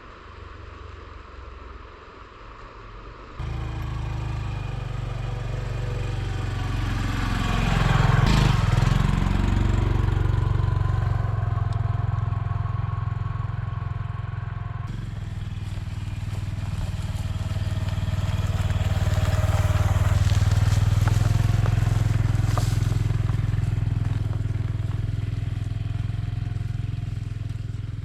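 Honda Super Cub's small single-cylinder four-stroke engine running under way, cutting in a few seconds in after a quieter hiss. It swells louder and fades off twice.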